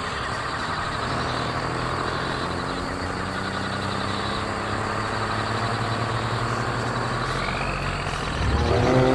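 Cartoon truck engine running steadily, growing louder with a rising pitch near the end.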